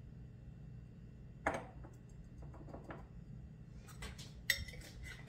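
A few sharp clinks and knocks of kitchen utensils and containers being handled, the last one near the end ringing briefly.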